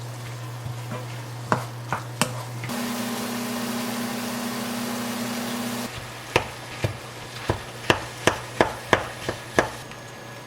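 Kitchen work sounds: a steady hiss with a low hum for a few seconds, then a knife chopping on a cutting board in about ten sharp knocks.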